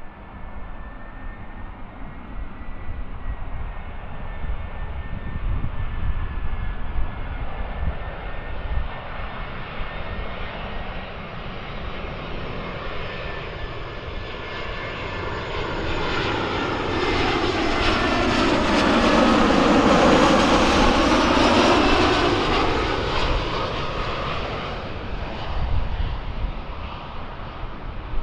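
Jet airliner passing close, its engine noise building to a peak about twenty seconds in and then fading, with a thin steady whine early on and low wind rumble throughout.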